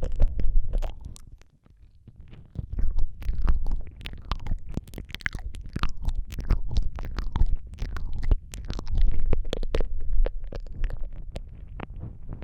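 Close-miked ASMR mouth sounds: a dense run of wet tongue and lip clicks and smacks over a low rumble, with a short lull about one and a half seconds in.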